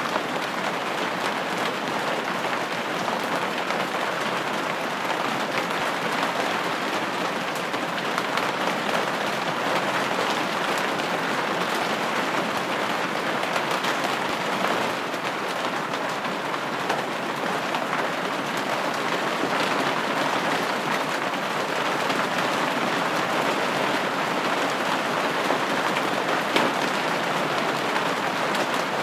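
Steady rain falling on a window pane, an even patter with scattered louder drop ticks.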